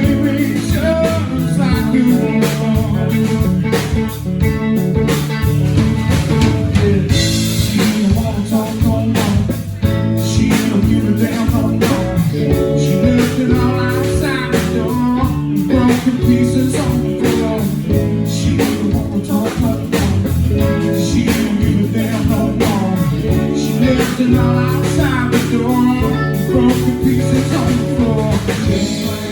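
Live blues-rock band playing an instrumental passage between verses: guitar with bending notes over bass and a drum kit.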